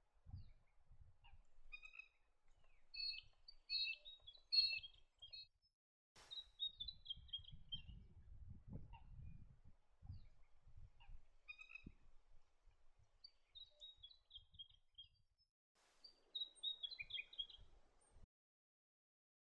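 Flame robin singing: short phrases of high notes that step downward in pitch, repeated several times, with single chirps between them. A faint low rumble sits underneath in places.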